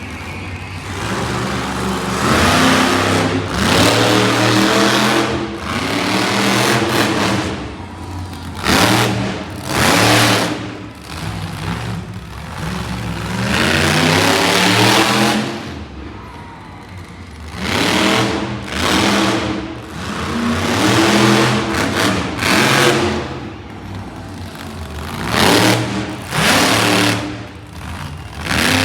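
Monster truck engine revving hard again and again, its pitch climbing and falling with each burst of throttle, with a couple of brief lulls midway.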